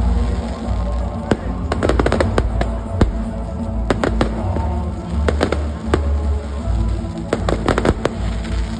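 Fireworks and firecrackers going off in irregular rapid clusters of sharp bangs, over background music with a heavy bass.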